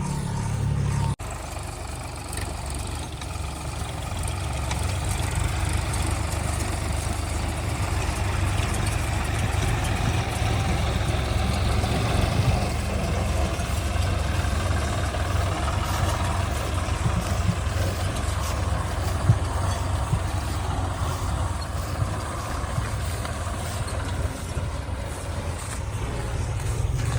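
Heavy diesel engine running under working load, its level rising and falling, with a single sharp knock about two-thirds of the way through.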